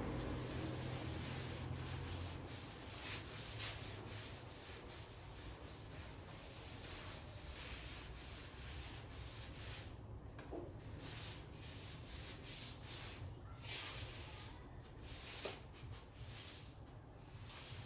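Irregular rubbing strokes by hand against a freshly sanded steel body panel of a 1971 Dodge Charger, the panel being worked over before primer. A low rumble fades out in the first couple of seconds.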